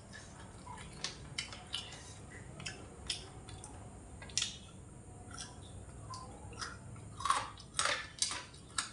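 Mouth noises of someone eating fried pork ribs: chewing with scattered short smacks and clicks, a few louder ones near the end.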